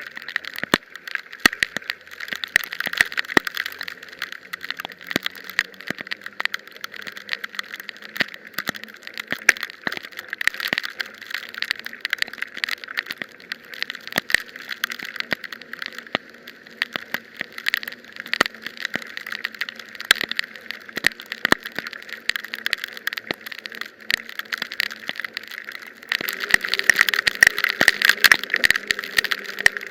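Riding a bicycle through heavy rain: a steady wet hiss peppered with many sharp ticks of raindrops, growing louder near the end.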